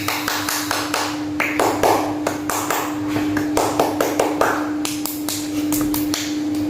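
A quick, irregular series of light taps and clicks over a steady hum.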